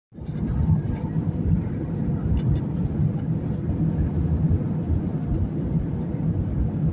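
Low, steady rumble of a Boeing 737 coming in to land.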